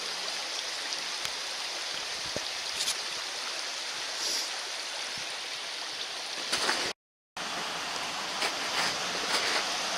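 Running water of a brook, a steady rush. It cuts out completely for a split second about seven seconds in, then returns a little louder.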